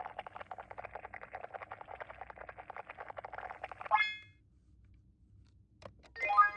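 Toy rice cooker's electronic sound: a rapid, even ticking that stops about four seconds in with a bright ding. A click and a second, louder ding follow near the end.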